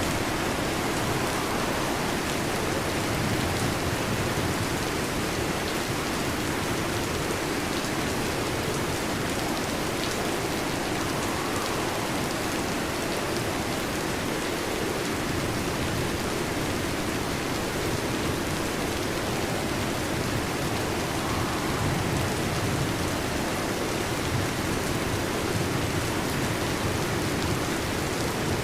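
Steady heavy rain, an even unbroken patter with no distinct thunderclaps.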